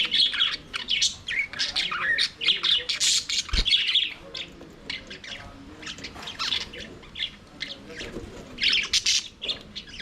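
Flock of budgerigars chirping and warbling in quick, overlapping calls, busiest in the first few seconds, thinning out in the middle and picking up again near the end.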